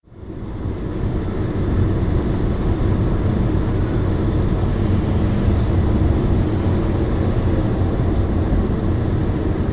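Steady low rumble of a car driving, fading in over the first second, with no impacts.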